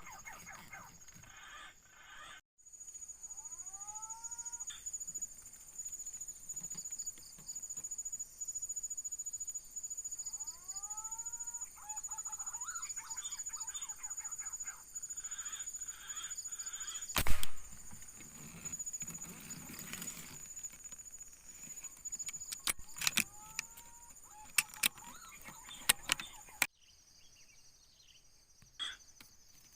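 Rising whistled calls of green pigeons (punai), heard three times over a steady high-pitched buzz. A single loud sharp crack sounds partway through.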